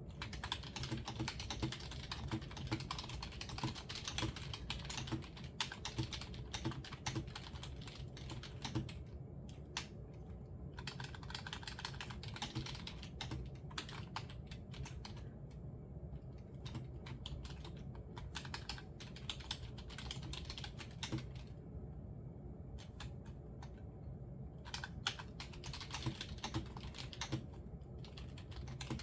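Typing on a computer keyboard: runs of quick key clicks with short pauses between bursts, over a steady low hum.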